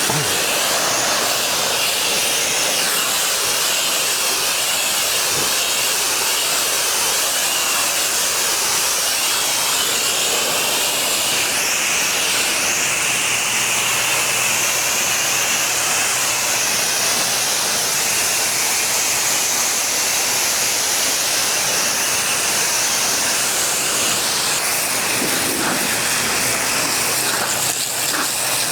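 Pressure washer spraying high-pressure water onto hard surfaces, a steady hiss of spray with the washer's engine humming faintly underneath.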